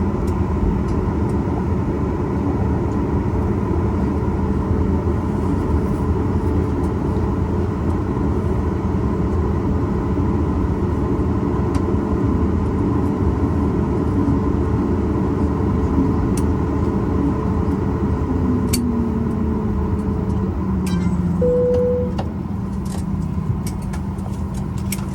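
Cabin noise of a Boeing 737 MAX 8 on the ground: a steady rumble and hum from its CFM LEAP-1B engines. About 19 seconds in, a whine falls in pitch. A brief single tone sounds about 21 seconds in, and the overall noise drops about a second later as the engines wind down.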